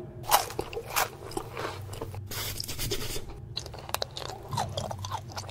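Mukbang-style eating sounds: a run of crisp crunches and chewing smacks from a full mouth, with a longer noisy stretch about two and a half seconds in.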